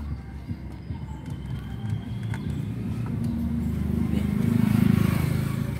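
Mazda 16-valve sedan engine running, its sound swelling to a peak about five seconds in and then falling back. The engine has been dying intermittently, which the mechanic traces to water mixed in the gasoline.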